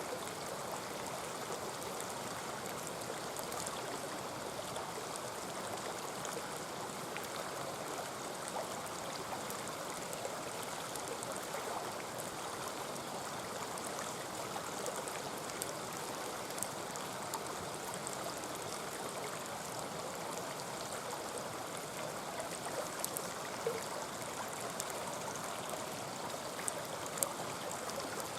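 Mountain stream babbling steadily over rocks, with a few faint sharp pops near the end.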